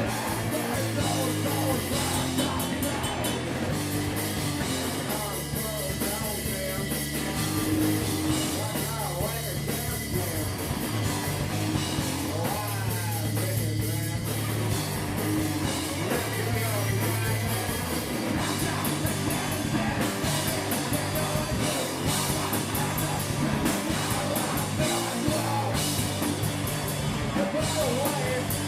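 A rock band playing live: drums, guitar and bass, with a voice singing at times.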